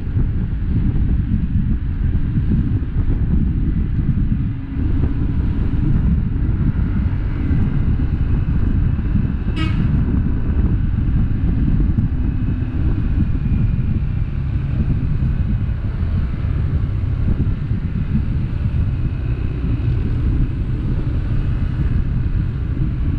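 Steady low rumble of vehicles driving on the road, with a brief horn toot a little under halfway through.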